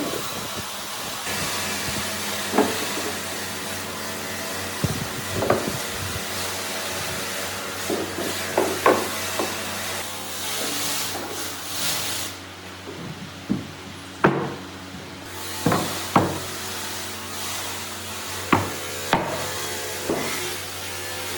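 Hammer knocks on wood: about a dozen sharp strikes at irregular intervals, sometimes two or three in quick succession, over a steady background hiss.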